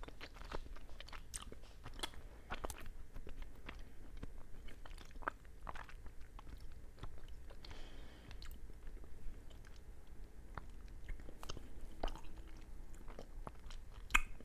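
A person chewing a mochi rice cake filled with fruit-flavoured bean paste: irregular soft mouth clicks throughout, with one sharper click near the end.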